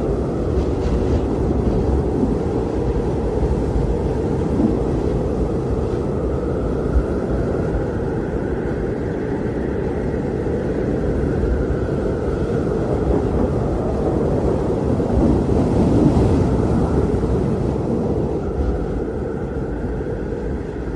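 Blizzard wind blowing steadily with a deep rumble, over which a fainter, higher howl slowly rises and falls.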